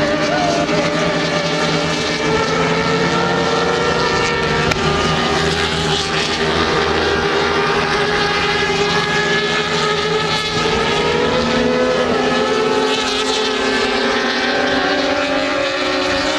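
Engines running steadily with a loud, continuous drone at a few constant pitches that drift slowly.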